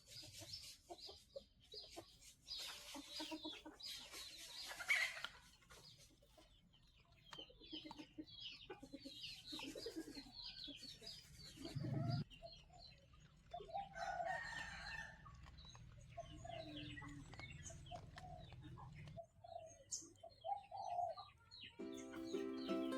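Chickens clucking and calling, with many short high chirps throughout. Background music comes in near the end.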